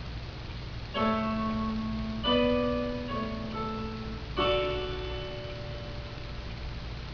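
Piano playing the song's closing chords: three chords struck about one, two and four seconds in, each left to ring and fade. A low steady hum runs underneath.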